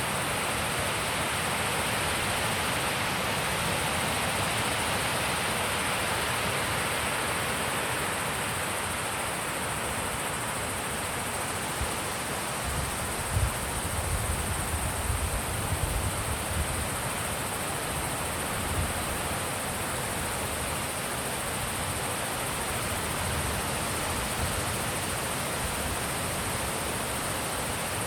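Wind blowing steadily. About halfway through, gusts buffet the microphone in a run of low bumps.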